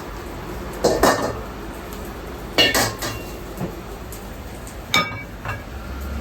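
Kitchen dishes and utensils clattering: separate knocks and clinks about a second in and near three seconds, then one clink about five seconds in that rings briefly.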